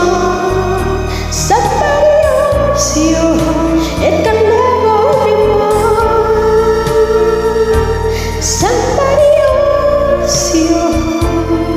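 A voice singing long, gliding held notes without clear words over a karaoke backing track.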